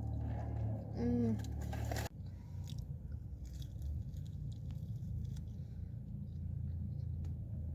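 A person chewing and biting food close to the microphone, with small crunches, over a low steady hum; the background changes abruptly about two seconds in.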